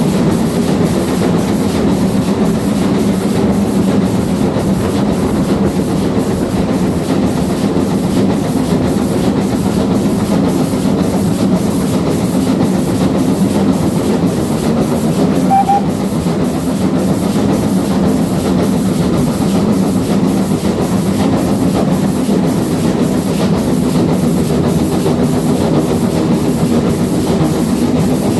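A steam-hauled train, with GWR Castle-class 4-6-0 4079 Pendennis Castle at its head, running steadily up the line. It makes a continuous rumble with an even, quick rhythmic beat.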